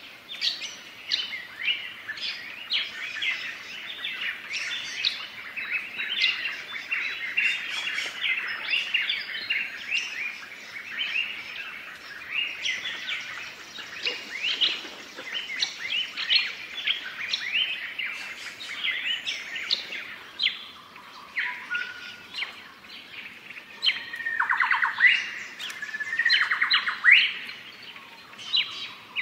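Many birds chirping and singing at once in a steady, busy chorus of short high calls, with a few louder, lower calls near the end.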